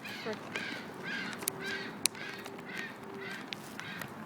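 Seagulls calling: a run of short, repeated calls, about two a second.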